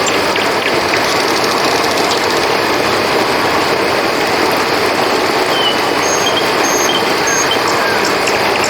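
Steady rushing of river water flowing, an even unbroken noise. A few short high chirps from a small animal come in between about five and a half and seven and a half seconds in.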